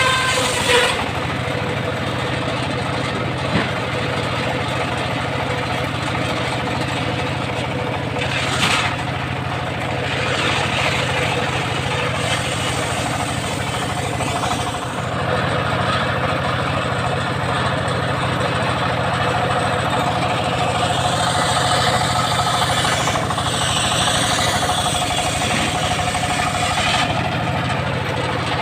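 Engine-driven homemade circular sawmill running steadily, a continuous machine drone with a low hum.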